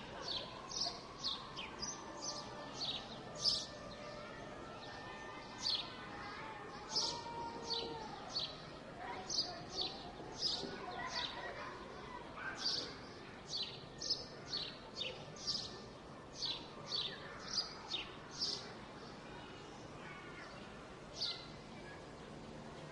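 A songbird giving runs of short, sharp chirps that each sweep quickly down in pitch, sometimes two or three a second, over a steady background hum of city noise. The chirps thin out near the end.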